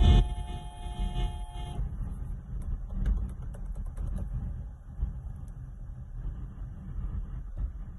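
A vehicle horn held as one steady note, cutting off about two seconds in, over a low uneven rumble of traffic.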